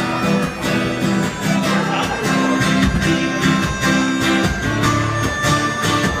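Acoustic guitar strumming and picking a country-folk instrumental intro, with steady rhythmic strokes and ringing chords.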